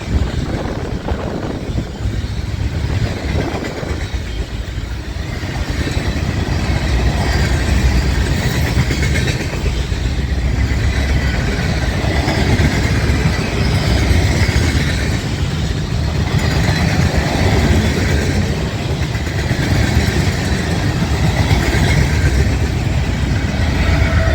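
Freight train rolling past close by: a steady, loud rumble of locomotive and rail car wheels on the track.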